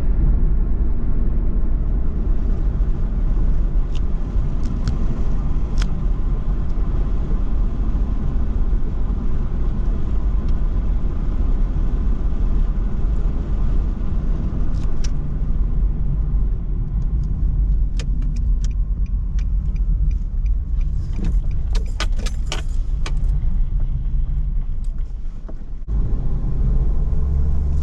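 Car driving at speed, heard from inside the cabin: a steady low rumble of engine and road noise. A run of sharp rattling clicks comes about two-thirds of the way in, and the rumble dips briefly near the end.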